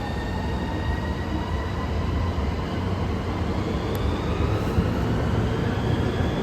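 Train accelerating, a whine slowly rising in pitch over a steady low rumble.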